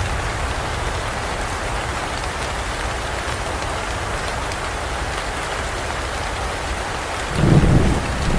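Steady heavy rain falling on forest foliage, with a low rumble of thunder rising suddenly near the end.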